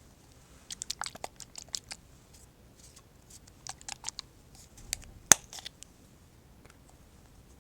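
Eye-drop bottle handled close to the microphone: two clusters of quick crinkling and clicking, then one sharp click about five seconds in.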